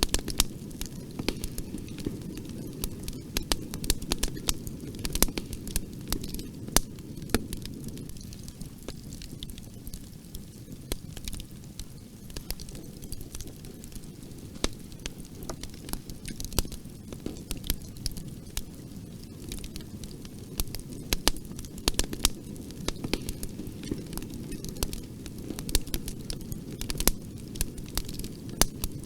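Bonfire burning: a steady low rumble of flames with irregular sharp crackles and pops of burning wood, some louder than others.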